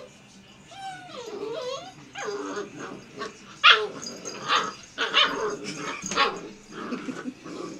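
Black Labrador puppy whining, then giving a string of short, high barks and yips over the second half.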